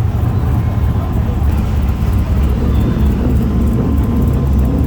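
A car engine running with a steady low rumble, with people's voices in the background.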